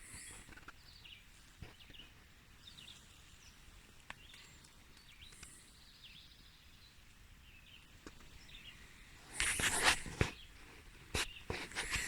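Faint, distant birds chirping in the quiet of early morning. From about nine seconds in, loud rustling and handling noise close to the microphone breaks in.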